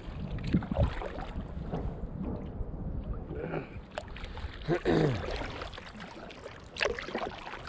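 Strong wind rumbling over the microphone and water splashing against a canoe hull on choppy water. A short voiced sound falls in pitch about five seconds in.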